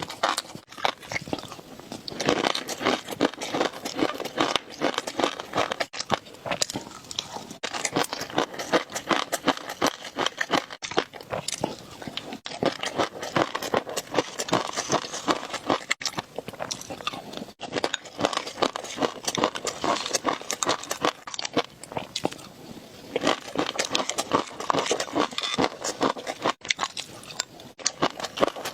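Close-miked eating sounds: crunching bites and wet chewing in quick succession, broken by a few abrupt short drop-outs.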